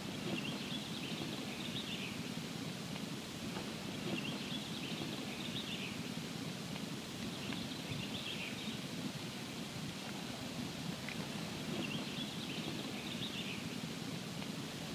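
Campfire burning with a steady low hiss and scattered small crackles. A faint, high chirping comes back in short runs every few seconds.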